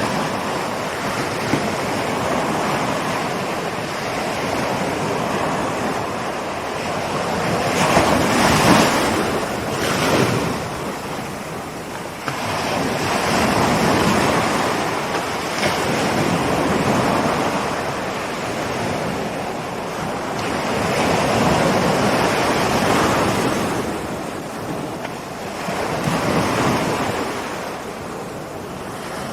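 Ocean surf: waves rolling in and breaking, the rush swelling and easing every few seconds, loudest about eight to ten seconds in.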